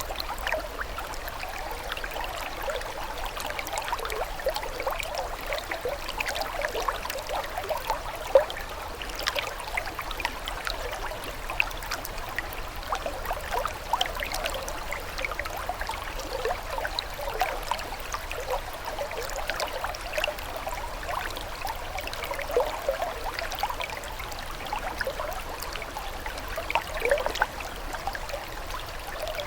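Stream water trickling and gurgling steadily, with many small bubbling splashes and one louder splash about eight seconds in.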